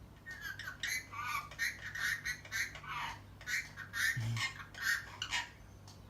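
Indian ringneck parrot talking, a rapid run of small, high-pitched chattering syllables that stops about half a second before the end.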